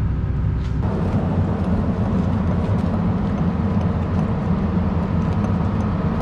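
A diesel engine running steadily, picking up revs or load about a second in.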